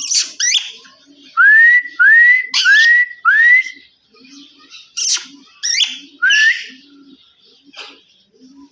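Indian ringneck parakeet whistling: four rising whistles in quick succession, each sliding up and levelling off, with short shrill squawks just before them and a few more after.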